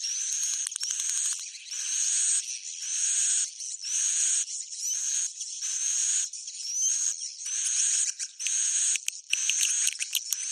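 Swiftlet roosting call, the 'suara inap' lure sound: high chirping twitter bursts about once a second, each with a short rising whistle. A run of sharp clicks comes near the end.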